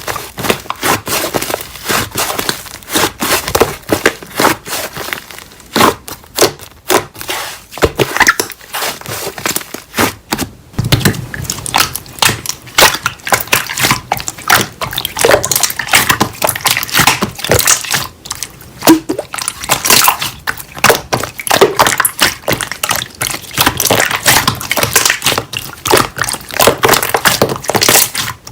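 Slime being squished and pressed by hand, giving a dense, irregular run of crackling pops and clicks.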